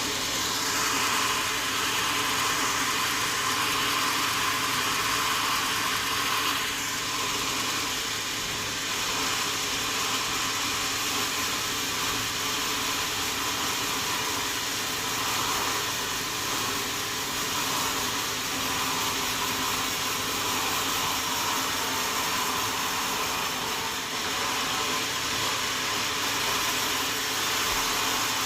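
Sawmill saw running steadily through a large wadang log: a constant hiss over a low machine hum, with the level rising and falling slightly.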